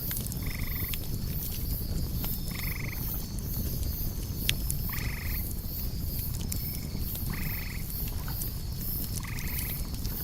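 Night campfire ambience: a steady low rumble with scattered small crackles, high insects chirring in a pulsing rhythm, and a short buzzy animal call repeated five times, about every two seconds.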